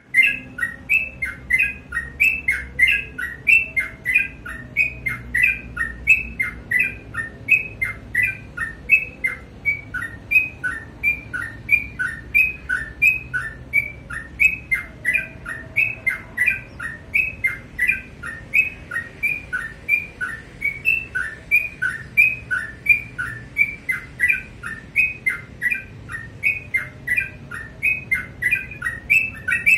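Yellow-vented bulbul (trucukan) singing continuously in full, vigorous song, a steady stream of short bubbly notes at about three a second.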